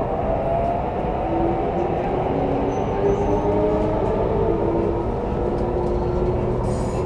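Traction motors and Mitsubishi Electric IGBT-VVVF inverter of an MTR CRRC Changchun EMU motor car, heard from inside the car. Several whining tones rise slowly in pitch over a steady rumble of the running train as it accelerates.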